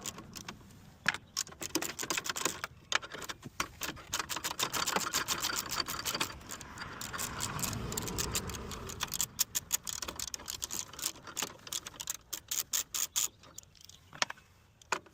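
Ratchet wrench clicking in quick runs as bolts are worked loose, with pauses between the runs.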